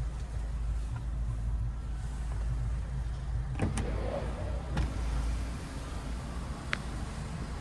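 Steady low hum of a car's electric motor, with a few clicks about halfway through and a sharp tick near the end.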